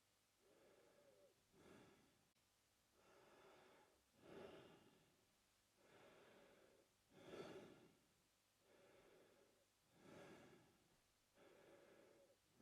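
A man breathing slowly and evenly through his mouth, faint and close. There are about four full breaths, one roughly every three seconds. Each breath has a longer, softer phase and a shorter, louder one.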